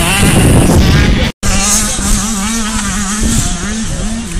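Motocross motorcycle engines running loud with a wavering pitch. The sound drops out completely for an instant about a second and a half in, then one engine carries on at a fairly steady pitch that wavers slightly.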